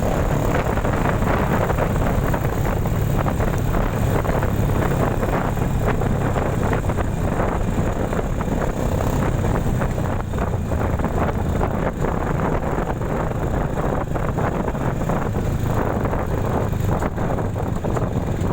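Wind noise on the microphone over the steady running of a motorcycle engine while riding.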